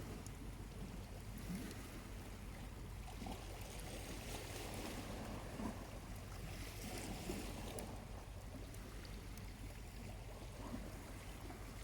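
Small waves lapping and washing gently on a calm shore in slow, soft swells, with a few faint ticks from slowly burning charcoal in a campfire.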